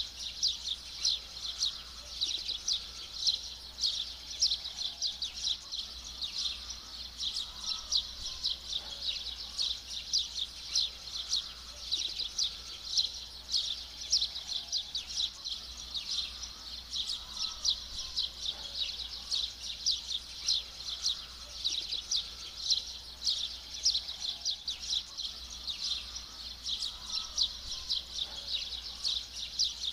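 Dense, rapid high-pitched chirping of birds, many short calls overlapping without a break, over a steady low hum.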